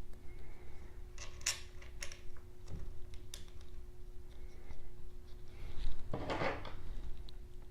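Small clicks and knocks of 3D-printer kit parts being handled and fitted, several in the first three seconds and a longer scraping rustle about six seconds in, over a faint steady hum.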